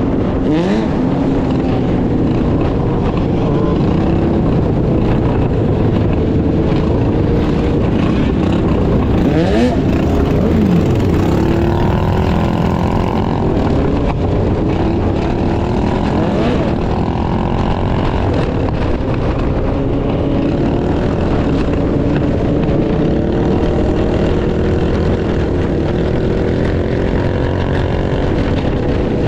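Several small motorbike engines running and revving, their pitch rising and falling as they pass, over a steady low rush of wind.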